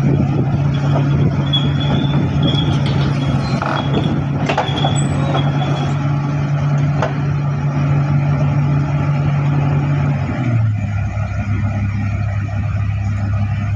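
Heavy diesel engine running steadily under load. About ten seconds in, its pitch drops a step as the engine slows. A few short high squeals and clicks come in the first half.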